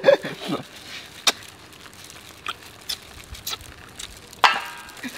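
A person chewing food, with a few sharp small clicks and a short vocal sound about four and a half seconds in.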